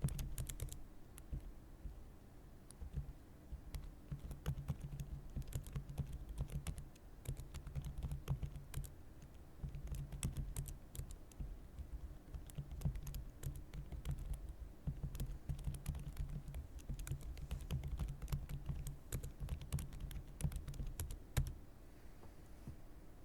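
Typing on a computer keyboard: irregular runs of keystroke clicks with short pauses between them, thinning out near the end.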